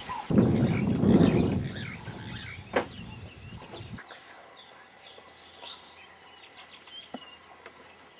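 Wild birds chirping and whistling in short, sweeping calls, with a loud low rumble over the first couple of seconds.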